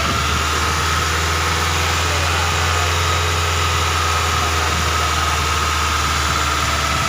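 Car engine idling steadily, with a thin, steady high whine running through it.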